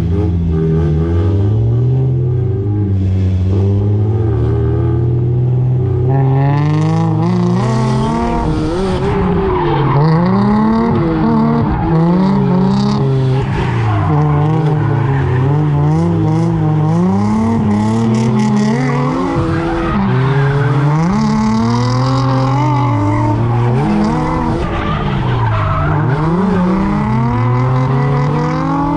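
Mazda Miata's four-cylinder engine revving up and falling back again and again under hard driving, heard from the open cockpit. From about six seconds in, tyres skid and squeal through the slides.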